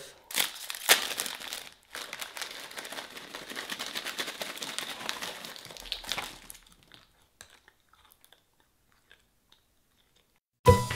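Crinkling and crunching of something being handled and crumpled for about six seconds, then near silence; music starts just before the end.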